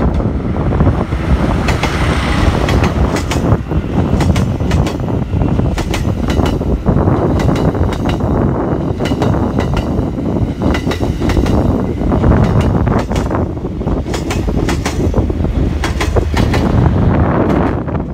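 JR East E001 'Train Suite Shikishima' passing close by, running on its diesel generators on the unelectrified line. There is a steady rumble, with many sharp clicks of the wheels over rail joints as each car goes past.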